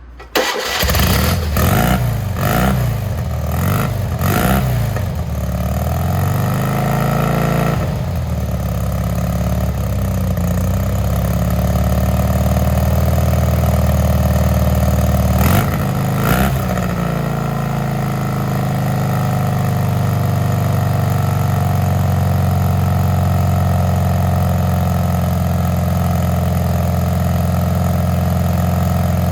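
Classic Fiat 500's air-cooled two-cylinder engine, bored out to 750cc, running. It comes in suddenly, is revved up and down several times, then settles to a steady idle, with two quick blips of the throttle about halfway through.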